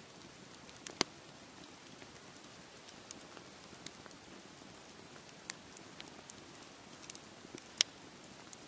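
Campfire crackling, with scattered sharp pops and snaps of burning wood over a steady hiss. The loudest pops come about a second in and near the end.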